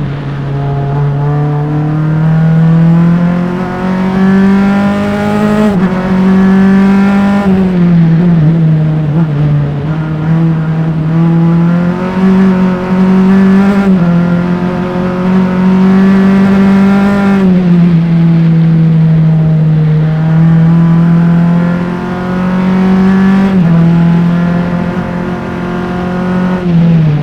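A single-seater race car's engine at race pace, recorded onboard by mics at the engine. It climbs in pitch through the gears with quick upshifts, then falls away several times as the driver lifts and brakes for corners.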